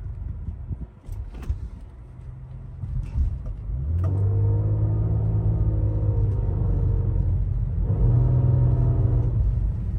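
Car engine and exhaust with a low rumble that swells into a loud, steady drone about four seconds in as the car pulls under power. It is the odd exhaust sound that the driver blames on deer remains caught under the exhaust.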